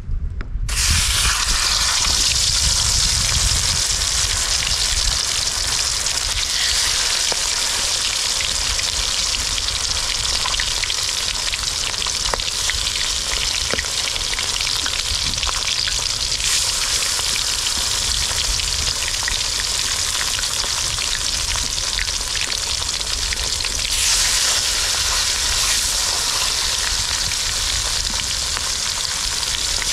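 Food sizzling steadily as it fries in hot oil. The sizzle starts abruptly about a second in and grows louder for a moment late on, over a low rumble.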